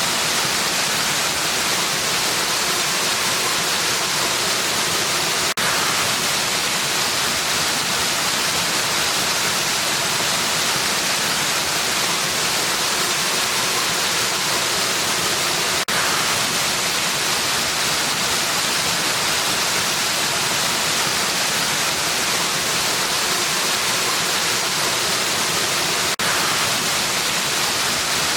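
Waterfall rushing in a steady, even hiss of falling water, with a tiny click and dip three times, about every ten seconds.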